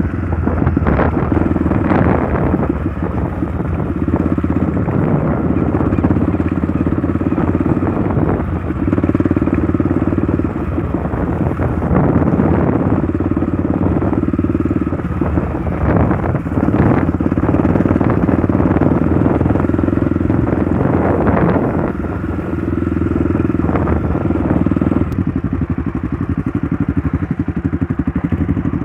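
Trail motorcycle engine running under way, its revs rising and falling, with a few knocks and rattles from the bike over rough ground.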